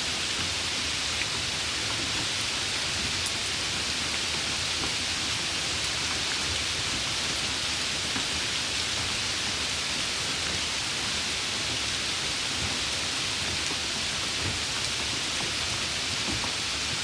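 Steady rain, an even hiss of falling drops with faint scattered patter.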